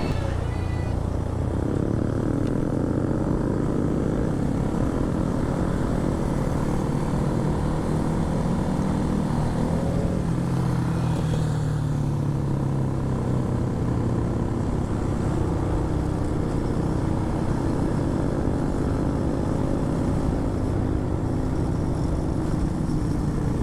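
Honda MSX125 minibike's single-cylinder four-stroke engine running under way, its pitch rising and falling with the throttle, over steady wind and road noise.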